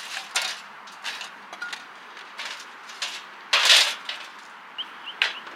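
Cutlery clicking and scraping against dishes during a meal: a string of short knocks, with a longer, louder scrape about three and a half seconds in.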